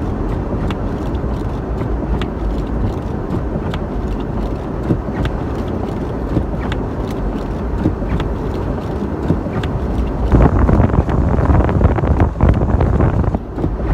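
Ford Bronco V8 and road rumble heard from inside the cab while driving, steady, swelling louder for about three seconds near the end.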